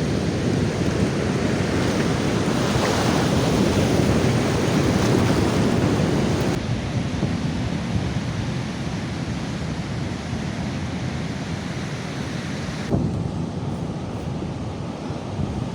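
Strong wind rushing over the microphone, mixed with beach surf, as a loud steady noise. The noise drops abruptly about six and a half seconds in and again near thirteen seconds.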